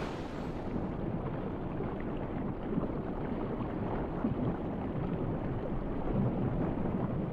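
Steady rushing noise of the sea, with no clear individual events.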